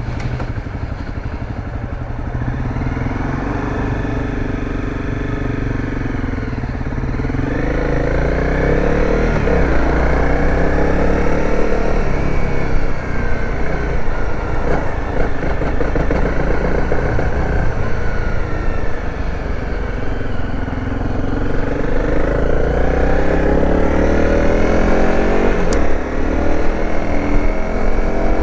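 Dirt bike engine running on the road, its pitch climbing and levelling off several times as it accelerates and shifts up, over a heavy low wind rumble on the microphone.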